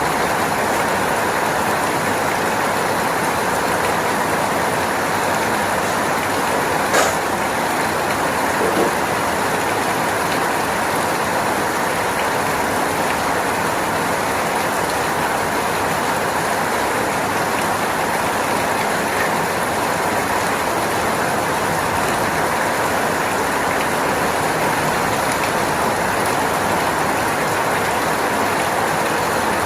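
Steady, even rain noise with no change in strength, and one brief sharp click about seven seconds in.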